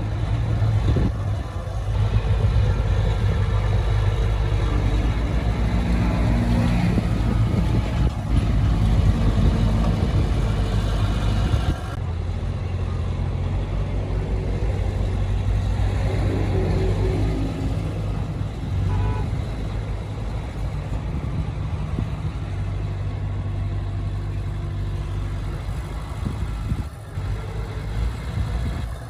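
Heavy diesel earthmoving machinery running under load: a steady low engine rumble with some mechanical clatter. The sound changes abruptly about twelve seconds in.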